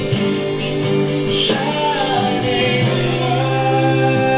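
A Christian hymn to Mary sung to instrumental accompaniment, with held notes; a new sung line begins near the end.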